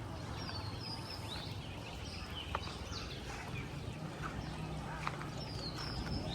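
Small birds chirping in short, quickly sweeping calls over a steady low rumble of outdoor background noise, with a few scattered sharp clicks.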